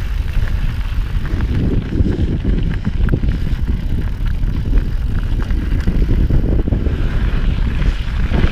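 Mountain bike rolling along a rough dirt singletrack: a steady low rumble of wind on the microphone mixed with tyre crunch and small irregular knocks and rattles from bumps in the trail.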